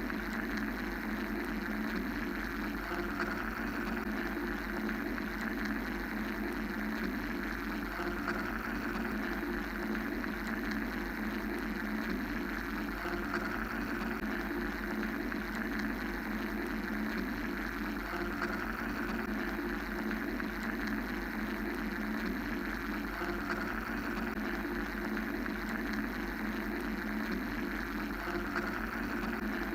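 Steady mechanical-sounding white-noise drone, even in level, with a slow swell in its upper hiss about every fourteen seconds.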